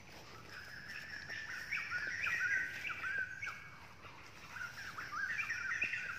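A bird singing: two runs of short, quickly repeated chirping notes, the first about a second and a half in and the second near the end.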